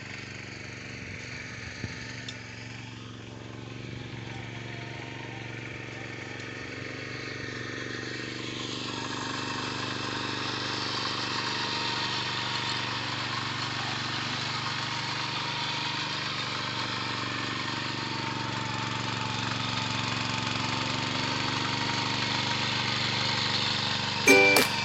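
Small tractor engine running steadily, growing louder from about eight seconds in. Plucked-string music cuts in right at the end.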